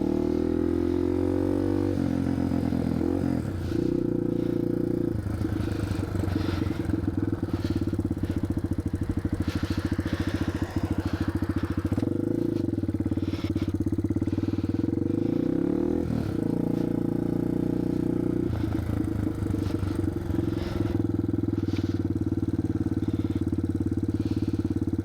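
1987 Yamaha TW200's single-cylinder four-stroke engine running while the bike is ridden through snow, its revs rising and falling several times.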